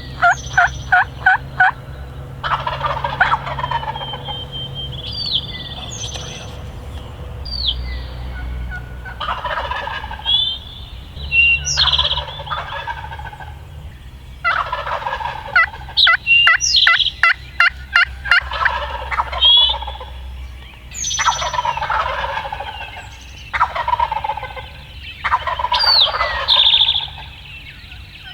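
Wild turkey gobblers gobbling again and again, a loud rattling gobble every few seconds. Small songbirds chirp between the gobbles in the dawn chorus.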